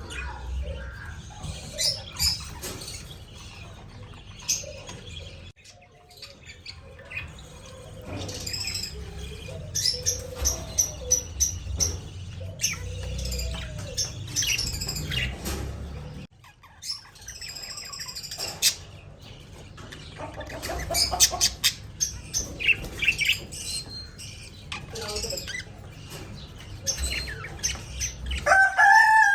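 Pet budgerigars chirping and squawking in short high-pitched calls, mixed with quick runs of sharp clicks, over a low steady rumble.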